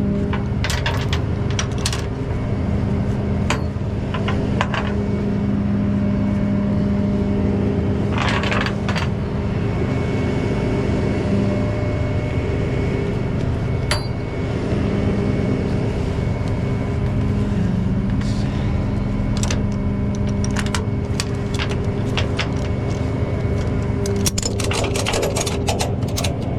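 A tow truck running steadily with a held mechanical hum that drops away for a few seconds about halfway through, and scattered sharp metallic clinks and scrapes. The clinks are densest near the end.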